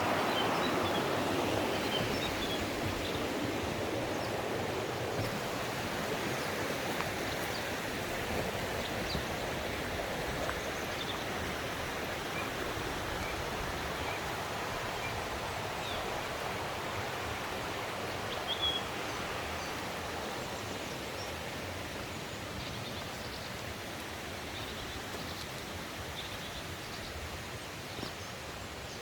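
Mountain stream rushing, a steady water noise that slowly grows fainter, with a few faint high chirps.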